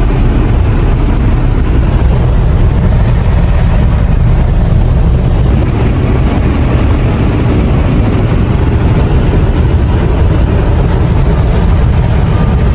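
Steady, loud rumble of a car on the move: road and engine noise, heaviest in the low end.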